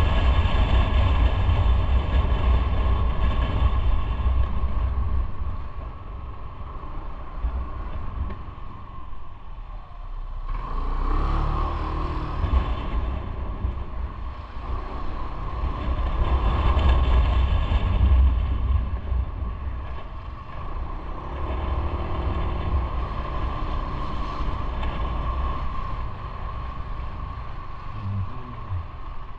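Motorcycle riding on the road: the engine running under a steady rumble of wind and road noise. It swells louder twice, about a third of the way in and again a little past halfway.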